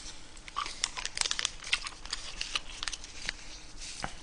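A person eating close to the microphone: chewing and mouth smacking, heard as an irregular string of short sharp clicks.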